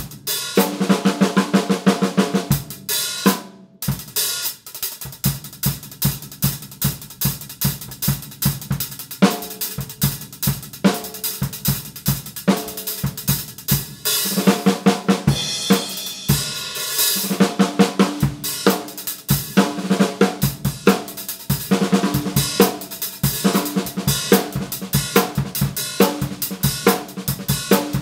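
Drum kit groove with snare and bass drum driven by a pair of Paiste 14-inch Sound Creation Dark Heavy Sound Edge hi-hats, played in a steady rhythm with a brief break about three and a half seconds in.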